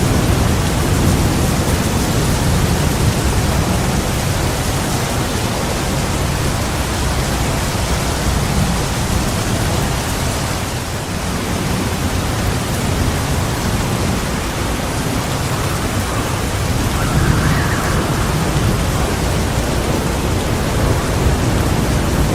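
Heavy rain falling steadily, with low thunder rumbling under it, easing slightly near the middle before building again.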